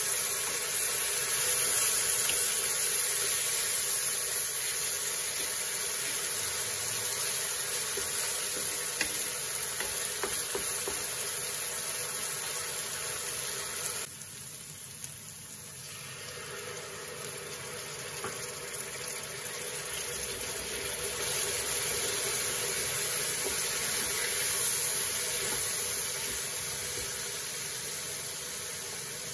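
Onion masala sizzling in a kadai with a little water added, then tomato masala frying in the same pan. The sizzle drops abruptly about halfway through, then builds back up.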